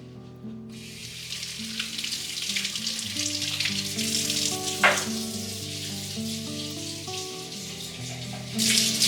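Food sizzling and crackling in a hot frying pan, starting suddenly about a second in, with a louder surge of sizzle near the end. Soft background music plays underneath.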